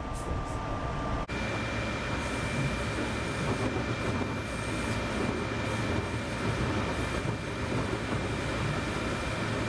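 SEPTA Regional Rail commuter train running, heard from inside the passenger car: a steady rumble and rushing noise. After a brief break about a second in, a thin high whine holds steady.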